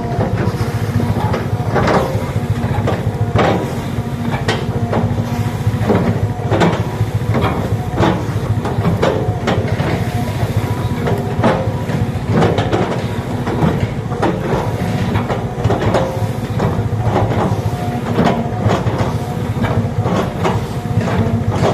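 Hydraulic excavator's diesel engine running steadily under load, with many sharp, irregular cracks and knocks as it breaks and chops up an oil palm tree.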